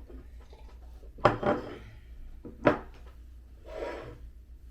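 Tableware being handled at a table, with two sharp knocks, about a second and a quarter in and again near the three-second mark, over a low steady room hum.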